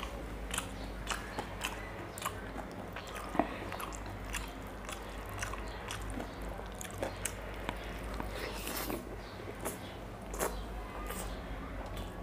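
Close-miked chewing and mouth sounds of a person eating sunny-side-up fried eggs by hand: irregular wet smacks and clicks, a few louder than the rest, over a low steady hum.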